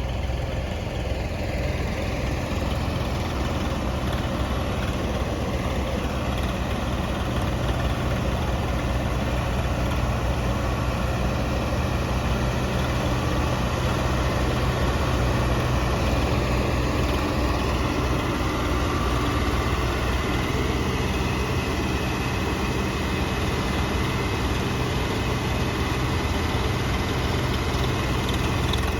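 Diesel farm tractor engines running steadily under heavy pulling load, a constant low drone with no revving up or down.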